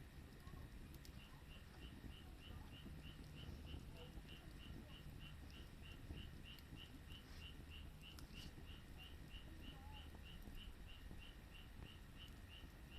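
Faint, steady chirping: a short high-pitched call repeated evenly about three times a second, starting about a second in, with a few faint clicks over a low rumble.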